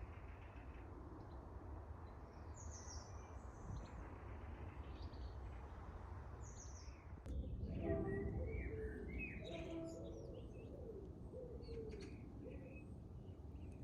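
Garden birdsong: small birds chirping in short high phrases over a steady low background rumble. About seven seconds in the background changes abruptly, and a low cooing call repeats several times alongside the chirps.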